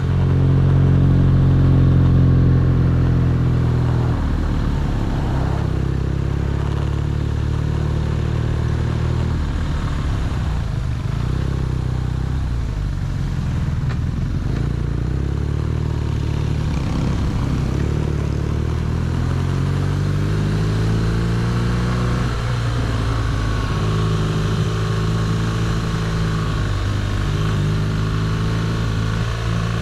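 BMW R nineT's boxer-twin engine running under way. Its note rises and falls with the throttle, with a sharp drop about four seconds in and another climb and change near the end, as the rider shifts gears.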